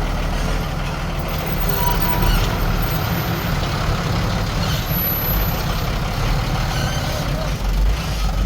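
Heavy diesel earthmoving machinery, a bulldozer and dump trucks, running steadily with a continuous low engine sound.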